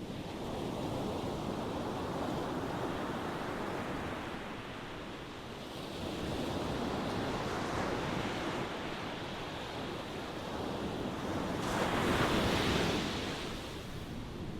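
Ocean waves breaking and washing on a shore, the surf swelling and easing back three times, the loudest wave about twelve seconds in.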